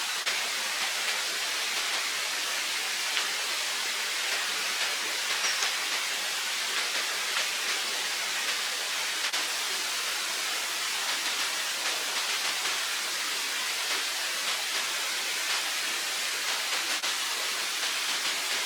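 Running water rushing steadily, an even hiss without pause.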